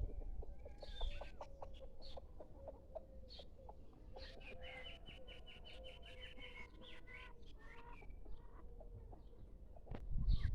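Birds calling: a run of short, clucking-like notes, then a quicker twittering series of higher notes from about four to eight seconds in.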